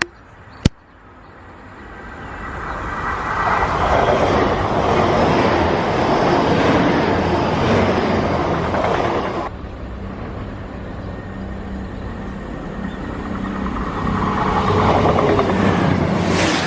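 A diesel train on the main line passing at speed. The rush of wheels on rail builds over a few seconds and drops off abruptly about halfway, leaving a steady engine drone that swells again near the end.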